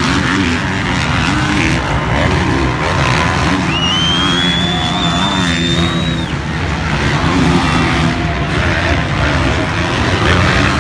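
Several motocross bikes racing, their engines overlapping and revving up and down with gear changes. About four seconds in, a high whine rises and holds for about two seconds, then cuts off.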